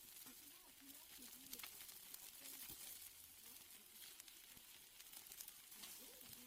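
Faint crackling and sizzling of a wood fire with steaks grilling over it: scattered sharp crackles over a soft hiss.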